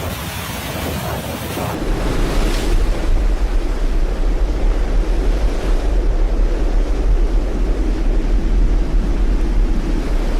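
Loud rushing noise with a deep rumble of wind buffeting the microphone, which grows louder about two seconds in.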